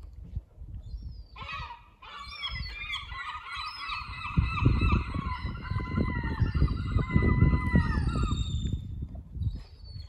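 Several large birds call at once, harsh, honking cries overlapping one another. They start about a second in and die away near the end, over a low rumble.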